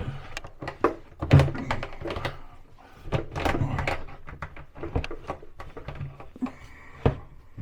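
Irregular knocks, clicks and clatter from handling a wall-cabinet door and its metal hinges, with a brief scrape near the end.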